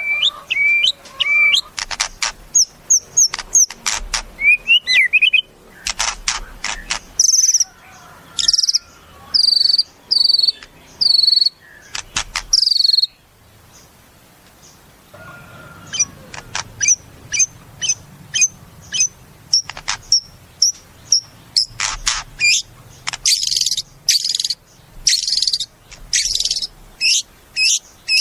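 White-rumped shama (murai batu) singing a varied song of whistled notes, fast repeated phrases and sharp clicking rattles, with a break of about two seconds around the middle.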